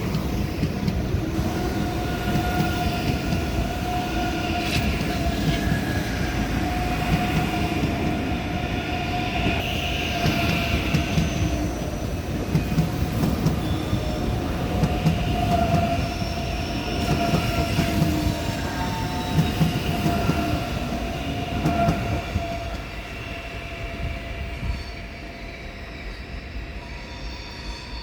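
ICE high-speed train pulling slowly out of the station, its wheels squealing in several wavering high tones over a steady rumble of wheels on rail; it grows quieter over the last few seconds.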